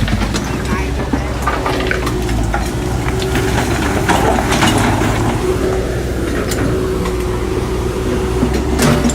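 Heavy diesel construction machine running steadily, with scattered clanks and crunches.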